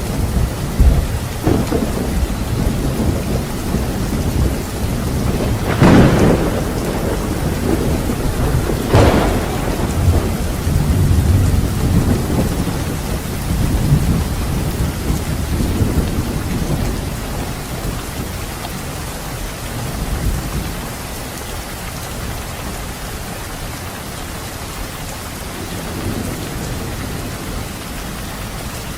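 Steady rain with rolling thunder; two sharper thunder cracks come about six and nine seconds in. The thunder eases off in the second half, leaving mostly the hiss of the rain.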